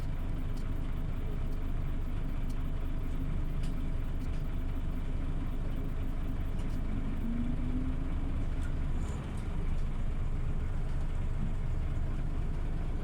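Scania OmniLink CL94UB city bus running, a steady low engine drone with its pitch rising briefly about seven seconds in as it picks up speed.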